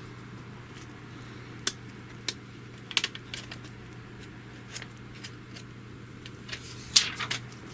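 Scattered light clicks and taps, about half a dozen with the sharpest near the end, from handling a smartphone and a replacement screen protector with its plastic packaging. A steady low hum runs underneath.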